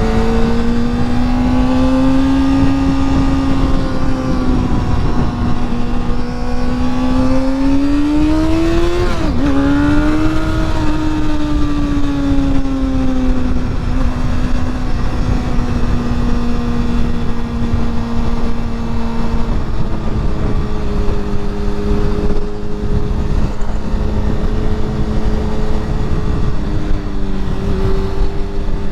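Honda CBR motorcycle engine under way, with wind rushing over the helmet microphone. The revs climb to a peak about nine seconds in, dip sharply for a moment, then ease down and hold steady for the rest.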